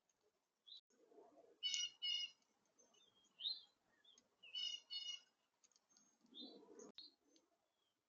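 Faint wild birds calling: scattered short high chirps and whistled notes, with two louder double calls about two and five seconds in. A low rustle comes twice, and a sharp click sounds near the end.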